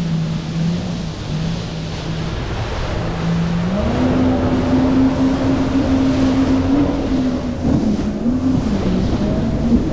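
Jet ski engine running under way over a rush of water and wind. The throttle opens about four seconds in and the engine pitch steps up, then dips briefly near the eight-second mark and comes back up.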